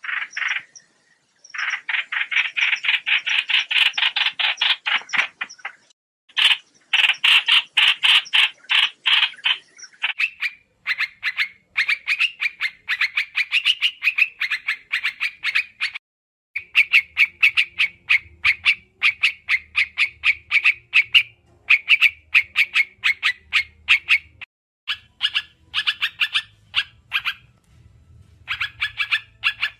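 A trao trảo songbird's call, used as a trapping lure: fast runs of sharp, rapidly repeated chattering notes, each run lasting a few seconds with short breaks between. A faint low hum sits under the second half.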